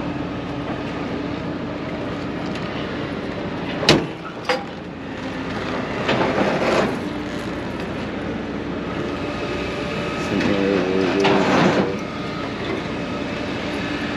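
A car panel is slammed shut with one sharp, loud slam about four seconds in and a smaller knock just after it. Behind it is a steady low hum with noisy rustling swells later on.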